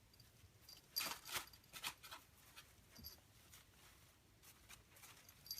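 Plastic leaves of an artificial plant rustling and rattling in a few short bursts as a kitten plays in them, the loudest about a second in.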